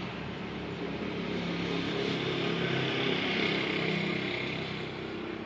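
A motor vehicle's engine running, its sound growing louder around the middle and then fading, like a vehicle passing by.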